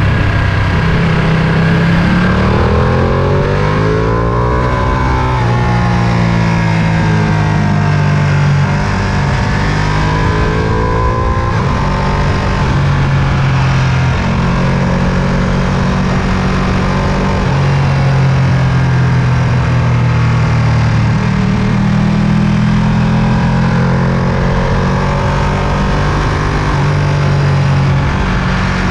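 Ducati Panigale V2's 955 cc L-twin engine under way, loud, rising in pitch twice as the bike accelerates and holding steadier between.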